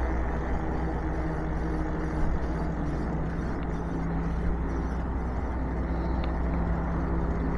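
E-bike riding along: wind rumbling on the microphone over a steady hum from the conversion-kit hub motor and tyres rolling.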